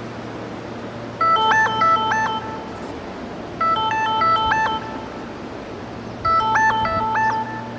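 A phone ringtone: a short electronic melody of quick notes, heard three times about two and a half seconds apart, over a steady low hum.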